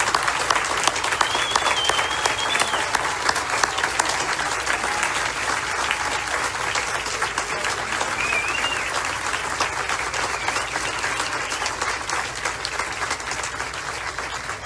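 Audience applauding, with a couple of short high calls from the crowd; the clapping slowly dies down toward the end.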